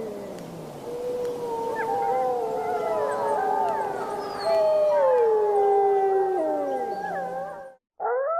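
Several wolves howling together in a chorus: long howls at different pitches overlap and glide up and down, with shorter wavering calls woven among them. Near the end the chorus cuts off abruptly, and a single howl starts, rising quickly and then holding steady.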